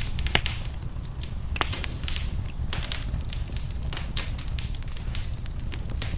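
Wood fire crackling in a fireplace: irregular sharp pops and snaps, one louder pop about half a second in, over a steady low rumble of the burning.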